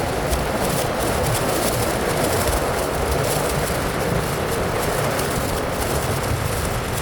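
Steady rumble of a bike ride, with road and wind noise running on without a break.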